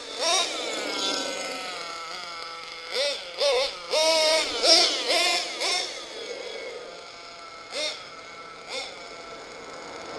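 SH .21 nitro engine of an HSP 1/8-scale RC monster truck revving in repeated short throttle bursts, each one a quick rise in pitch. Early on one longer high-pitched run slides down in pitch.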